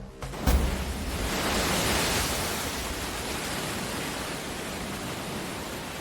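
Surf on a shore: a low thump about half a second in, then a steady rushing hiss of water that swells and holds.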